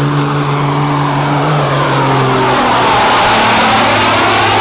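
Semi truck's diesel engine running at full throttle on a pull. It runs steadily at first, then grows louder and rougher, its pitch dipping and climbing back up near the end.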